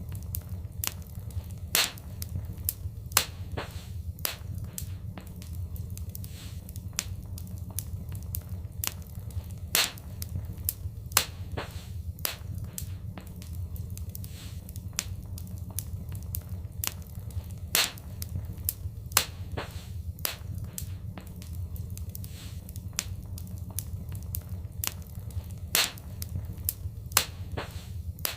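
Wood fire crackling, with many small irregular snaps and a few louder pops over a steady low rumble. The louder pops come in pairs about every eight seconds, a repeating loop.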